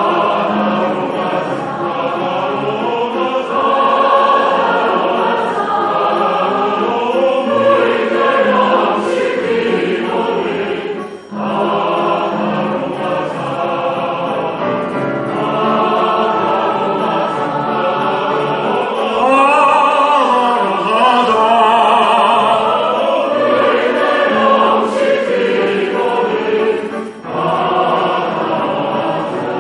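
A choir singing a song in many voices, with short breaths between phrases about eleven seconds in and again near the end.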